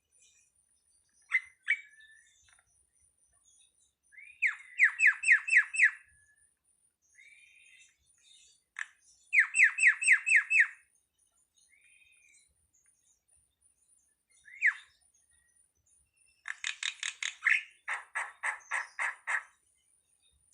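Starling (jalak) calling: three bursts of rapid repeated harsh notes, with single short calls between them. The last burst is the longest and drops lower in pitch in its second half.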